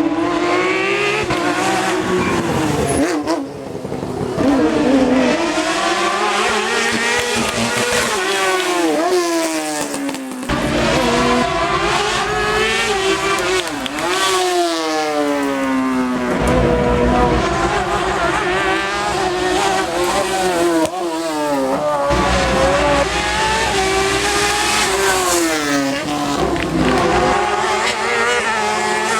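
Race car engines at full throttle, the pitch climbing through each gear and dropping sharply at every upshift, again and again.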